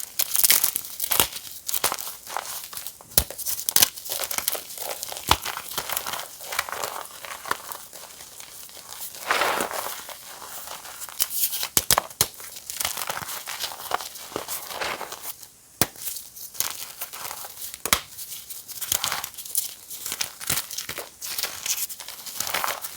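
Reformed gym chalk being crushed and crumbled, a continuous crisp crackling with many sharp snaps along the way.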